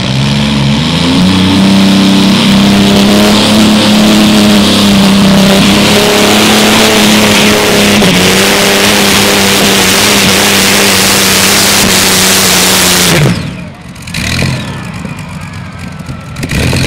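V12 engine of a pulling tractor revs up and runs steady and loud at full throttle while hauling a weight sled. Near the end the throttle is cut and the engine note drops suddenly.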